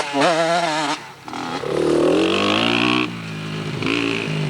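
Dirt bike engine revving: it wavers in pitch, drops off about a second in, then revs up again and holds before easing near the end.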